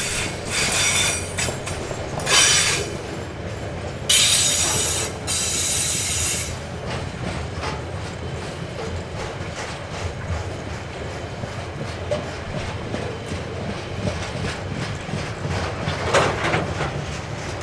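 A train rolling along the track with a steady low rumble of wheels on rails, and several loud high-pitched bursts from the wheels in the first six seconds.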